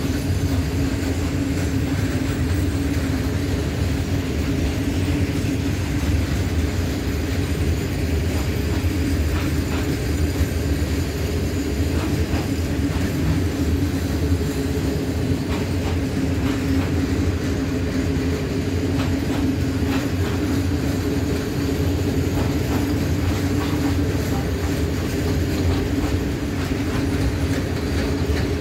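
Long freight train of container wagons rolling past at steady speed: a continuous rumble of wheels on rail with a steady hum, and occasional faint clicks as wheels cross rail joints.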